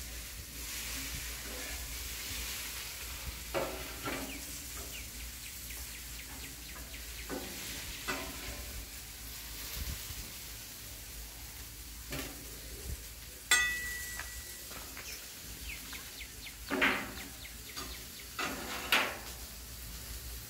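Food frying with a steady sizzle, broken by occasional scrapes and knocks of cooking utensils. There is one sharp metallic clink with a brief ring a little past the middle, and two louder scrapes near the end.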